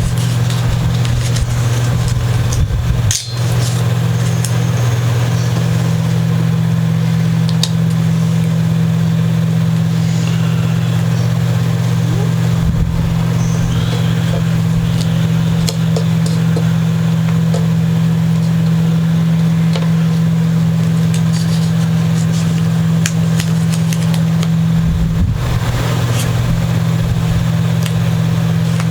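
A steady low hum runs throughout, with occasional faint clicks and taps from handling.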